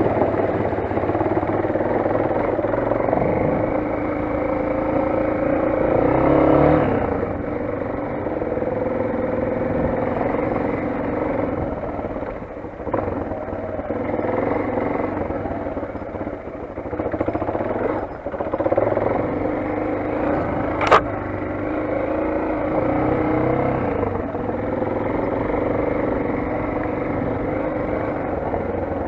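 Motoland XR 250's single-cylinder four-stroke engine running under changing throttle, with a short rise in revs about six seconds in. A single sharp click cuts through about two-thirds of the way through.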